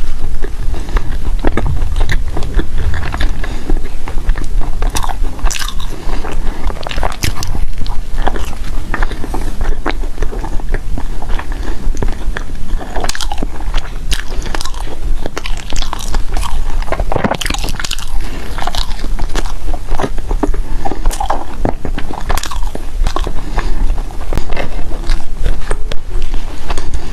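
Loud close-miked chewing and biting of food, a steady run of sharp mouth clicks and bites throughout.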